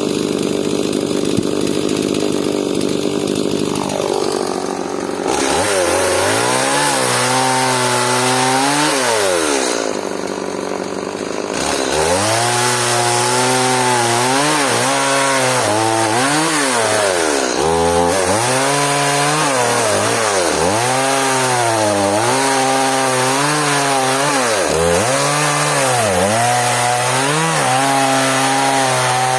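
Stihl MS180 two-stroke chainsaw cutting hard elm. The engine's pitch repeatedly sags and recovers as the chain loads up in the wood, with a longer drop toward low revs about ten seconds in.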